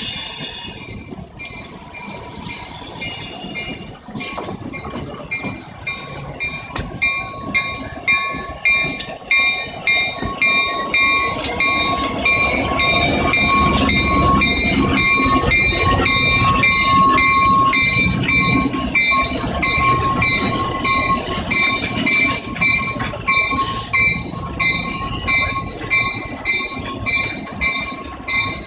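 Diesel-hauled passenger train pulling slowly into a station, growing louder as the locomotive draws level. Engine rumble is strongest about halfway through. Once the train is close, a steady high-pitched wheel squeal and regular clicks from the wheels run on as the coaches roll past.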